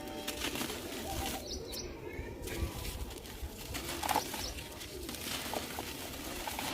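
Dry, dusty crumbly chunks being crushed and crumbled by hand, with a dense run of small crunches and crackles. Birds coo in the background.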